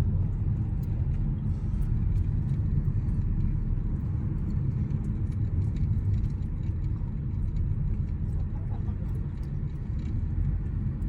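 Car road noise: a steady low rumble with no change in pitch.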